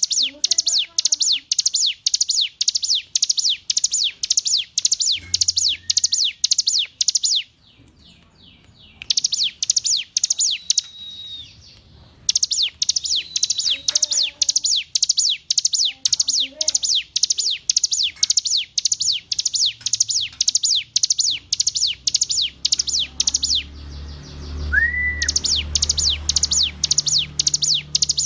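Ciblek gunung, a mountain prinia, singing a long series of sharp, high, evenly repeated notes at about three a second, broken by a few short pauses. A faint low hum sits underneath toward the end.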